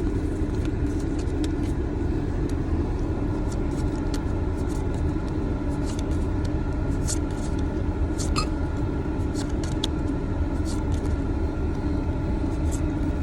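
Steady low rumble inside a parked car's cabin, with light ticks and rustles of Pokémon trading cards being handled and flipped through.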